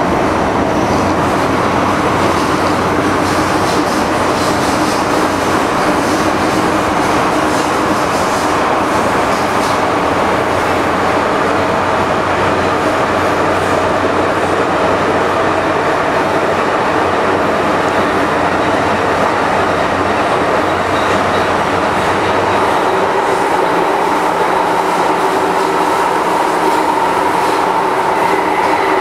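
MTR M-Train electric multiple unit running on the rails: a steady, loud rumble of wheels and track with several steady whining tones over it. About three-quarters of the way through, the tones shift and a new higher whine comes in.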